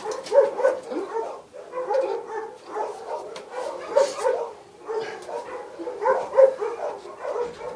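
A dog barking and whining over and over in short, rapid bursts.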